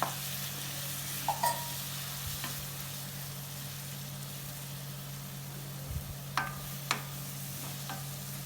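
Onion-tomato masala sizzling in hot oil in a kadai as it is stirred and sautéed, the tomatoes just added. A few sharp clinks of the stirring spoon against the pan come near the start, at about a second and a half, and twice more a little past the middle.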